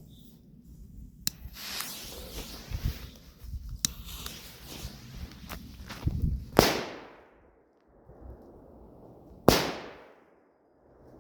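Firecrackers going off: a few small cracks and hissing early on, then two loud bangs about three seconds apart, each dying away in an echo.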